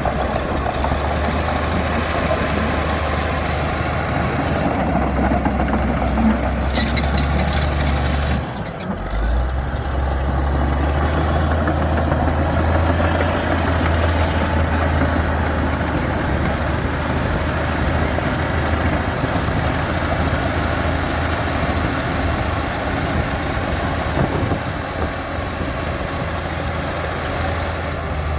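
Komatsu D60P bulldozer's diesel engine running with a steady low drone, and a short metallic rattle about seven seconds in. The engine note drops briefly about nine seconds in and then picks up again.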